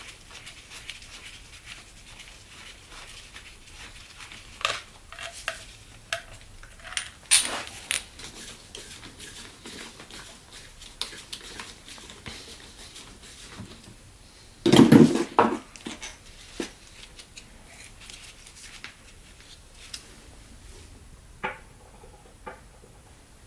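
Metal tools and parts being handled: scattered clinks and knocks, with one louder clatter about fifteen seconds in.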